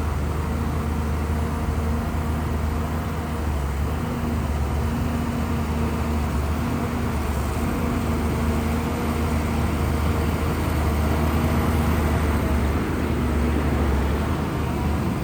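Shantui bulldozer's diesel engine running steadily, a low drone that holds throughout.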